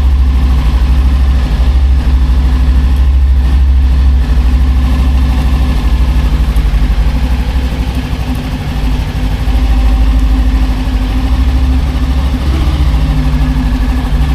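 Motorcycle engine running steadily at low, even revs, a deep, unchanging engine note.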